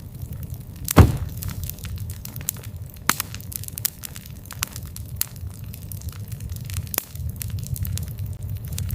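Campfire burning with a steady low rumble of flame and frequent crackles and pops of burning wood, the loudest pop about a second in.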